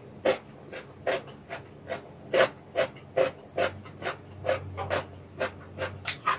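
Close-miked eating sounds of a person chewing thin noodles from a vegetable noodle soup: short wet mouth smacks repeating about two or three times a second.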